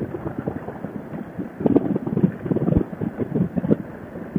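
Wind rushing and buffeting over a helmet-mounted microphone on a motorcycle at road speed.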